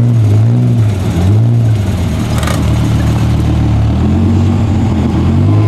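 Dodge Viper's V10 engine blipped three times in quick revs, then running steadily as the car pulls slowly away.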